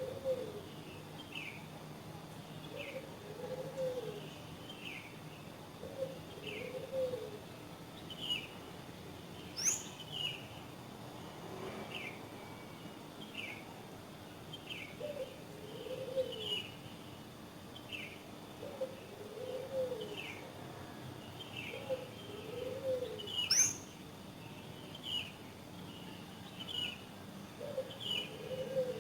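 Several birds calling: a short falling chirp repeats about once a second, and a low two-part call sounds in runs of two or three. A sharp rising whistle comes twice, about ten and twenty-four seconds in, over faint steady background noise.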